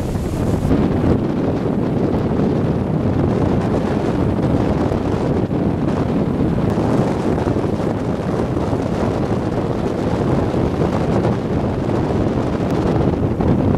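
Storm-force typhoon wind buffeting the microphone: a steady, loud low rumble of wind noise without a break.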